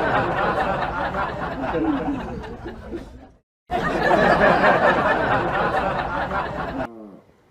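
Muffled voices with chuckling and laughter over a dense, muddy background. The sound cuts out briefly just past halfway, resumes, and fades away near the end.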